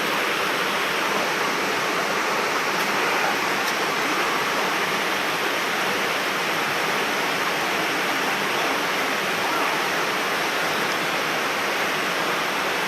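Mountain stream water rushing over rocks, a steady loud rush.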